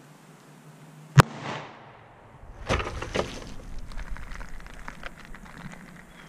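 A single sharp shot from a .45 Auto pistol about a second in. About a second and a half later comes a brief burst of rustling and knocking, then scattered small clicks.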